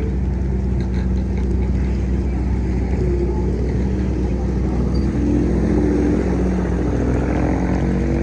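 Vehicle engines running in street traffic: a steady low drone, with an engine note that wavers and shifts in pitch in the second half.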